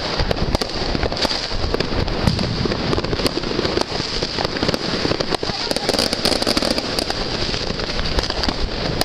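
Many fireworks and firecrackers going off at once: a dense, continuous crackle of many overlapping bangs.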